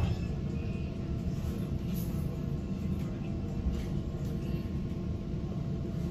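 Steady low rumble and running noise inside a moving electric commuter train, with a brief knock right at the start.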